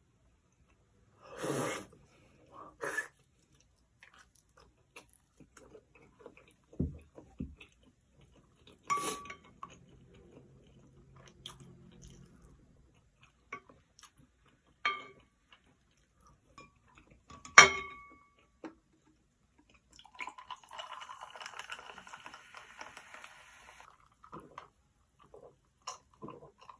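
A person eating close to the microphone: chewing and crunching on food, with scattered clicks of utensils against dishes. One sharp clink comes about 18 seconds in, and a stretch of steady noise lasts about four seconds from around 20 seconds in.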